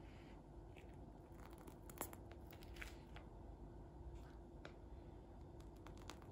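Faint kitchen handling sounds: a few light clicks and short rustles, with one sharper click about two seconds in.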